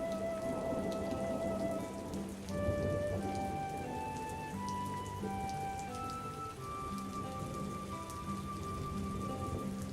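Steady rain falling, with scattered drop ticks, over soft slow music of long held notes that change pitch every second or two.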